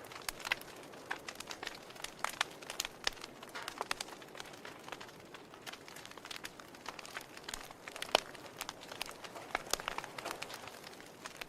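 Wood fire in a fireplace crackling: irregular sharp pops and snaps of burning logs over a soft steady hiss, with one louder pop about two-thirds of the way in.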